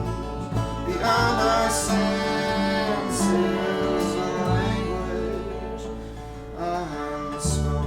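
Live acoustic band playing a song: plucked guitar with bowed viola and bass. A strong low bass note comes in near the end.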